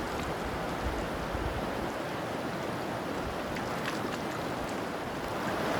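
Steady rushing of a river current flowing past.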